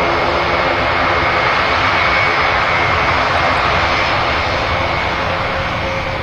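Airbus A400M's four turboprop engines running, a loud steady drone with a high whine over it, easing slightly in loudness near the end.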